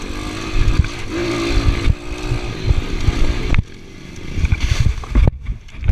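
Motorcycle engine running under throttle, its pitch wavering and rising briefly, with heavy wind rumble on the microphone. The engine sound drops away abruptly about three and a half seconds in.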